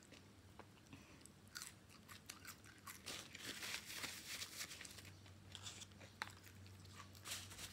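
Faint close-miked chewing of french fries: soft crunches and mouth sounds coming in irregular bursts.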